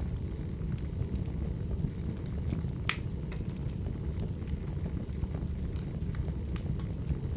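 Wood fire burning: a steady low rumble of flames with irregular sharp crackles and pops of burning logs, the loudest pop about three seconds in.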